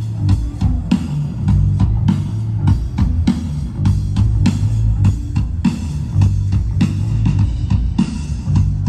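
A rock band playing: a drum kit keeps a steady beat over bass guitar and electric guitar.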